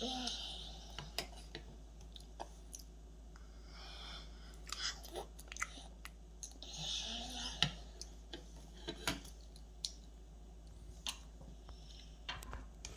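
A toddler chewing a mouthful of cereal flakes soaked in milk, with scattered light clicks as a spoon touches a metal bowl.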